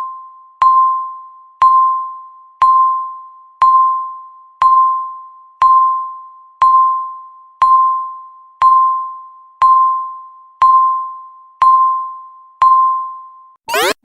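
Electronic countdown-timer beep, one short tone a second that starts sharply and fades, thirteen times. Near the end the timer hits zero and a loud alarm starts: fast, repeating rising sweeps.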